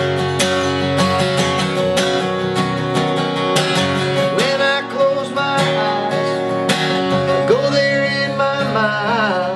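Live acoustic country music: an acoustic guitar strummed steadily through a passage of the song without sung words, with pitched lines bending up and down over the strumming.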